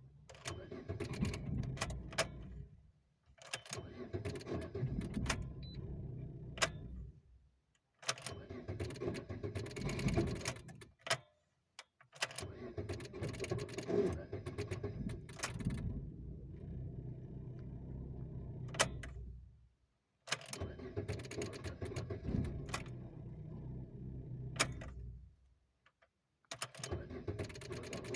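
Lada Granta being started over and over: each turn of the key brings sharp clicks from the starter relay and a few seconds of mechanical running before it cuts off, about six attempts in all. It is a hard-starting condition, with the relay clicking several times per turn of the key even though the starter has been repaired.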